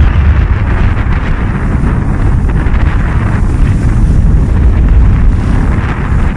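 Strong wind buffeting the microphone, a loud, steady rumbling rush aboard a sailing yacht under way.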